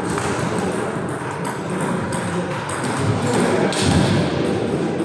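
Table tennis balls clicking off bats and tables in quick, irregular succession from several rallies at once, over the steady background noise of a crowded sports hall.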